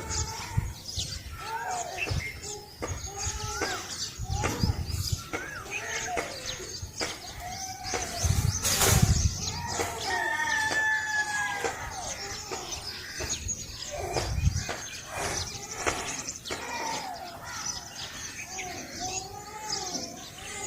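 Many birds calling and chirping in short, repeated, swooping calls, with a rooster crowing. There is one louder burst about nine seconds in.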